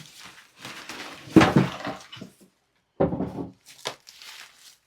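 Rubbish being rummaged through and moved by hand: irregular knocks, scrapes and rustles of objects being shifted, with a louder clatter about a second and a half in and a sharp click near the end.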